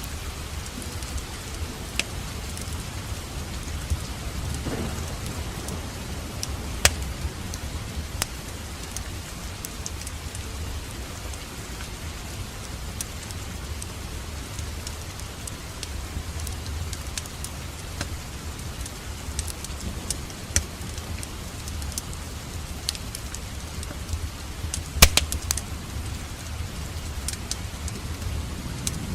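Wood fire in a fireplace crackling: a steady hiss and low rumble with scattered sharp pops, the loudest about seven seconds in and a quick cluster near the end.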